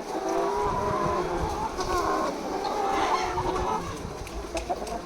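A flock of broiler chickens in a poultry shed calling all at once, many short overlapping clucks and cheeps, over a low rumble.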